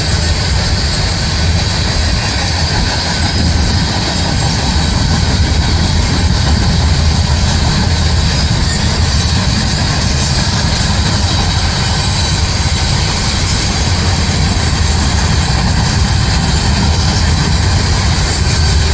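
Heavy rail equipment running steadily: a deep, constant engine drone with broad mechanical noise and no breaks.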